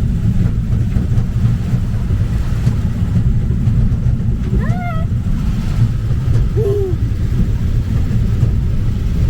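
Steady low rumble of the little train's engine and movement, heard from aboard. Partway through come two short pitched calls that rise and fall.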